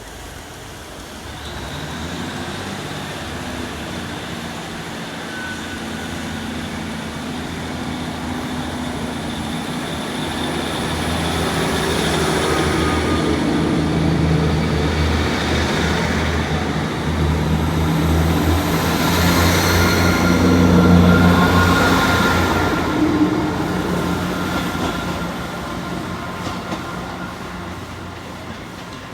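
Diesel multiple-unit passenger train, with a Class 158 unit in the formation, pulling out under power. Its diesel engines drone low and steadily, growing louder to a peak about 20 seconds in, then fading as it draws away.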